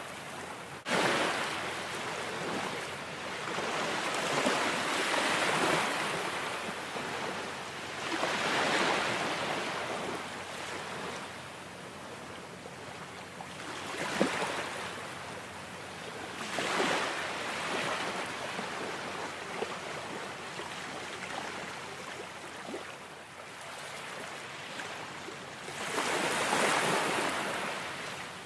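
Ocean waves breaking and washing up on a shore, each surge swelling and fading every few seconds. The sound drops out briefly about a second in and then comes back abruptly.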